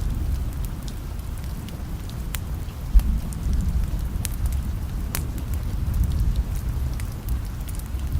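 Steady rain with a low rumble of distant thunder, under the scattered sharp pops and crackles of a wood fire burning in a fireplace. A single low thump stands out about three seconds in.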